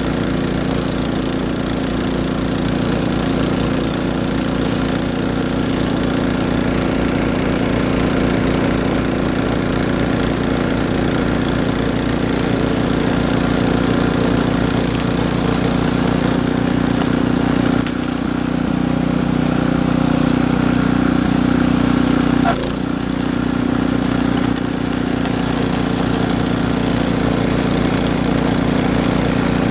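Snowblower engine running steadily while clearing snow. About two-thirds of the way through, its note strengthens for a few seconds, then drops back with a sharp click.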